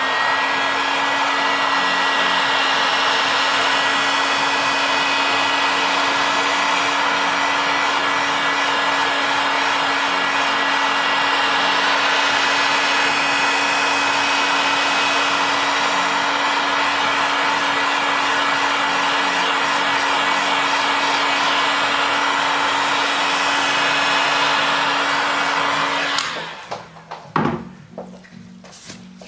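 Hot-air gun blowing steadily with a fixed whine, heating the phone to soften the display adhesive; it switches off about 26 seconds in, followed by a few clicks.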